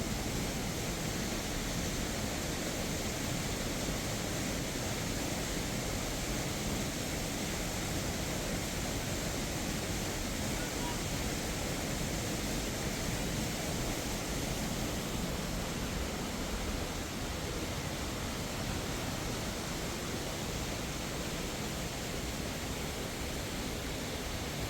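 Steady, unbroken rushing of falling water, an even hiss that does not change.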